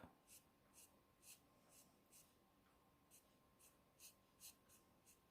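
Faint short strokes of a colouring pen on card, about two a second.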